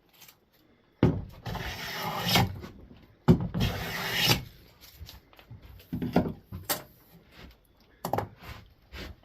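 Hand plane taking two full strokes along a board's edge, each a rasping cut of about a second that starts sharply, followed by a few shorter knocks and scrapes. The strokes are taking down a high corner to square the edge for a glued edge joint.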